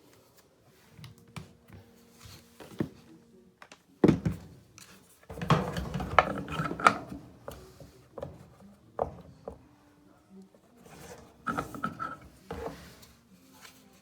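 Clicks, knocks and scraping of dryer parts being handled and fitted back together, with a sharp knock about four seconds in and a louder stretch of clatter and rubbing just after.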